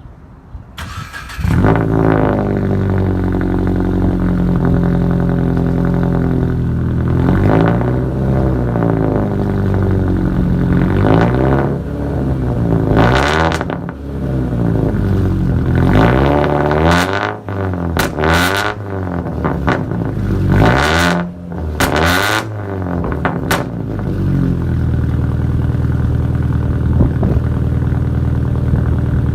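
2018 Subaru Impreza's 2.0-litre flat-four running through a muffler and resonator delete. It starts about a second in, idles, and from about seven seconds is revved in a series of blips, then settles back to a steady idle near the end.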